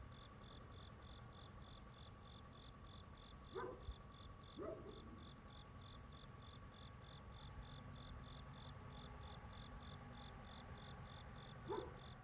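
Night chorus of crickets chirping in a steady, even rhythm over a steady insect drone and a low rumble. Three short animal calls stand out, twice a few seconds in and once near the end.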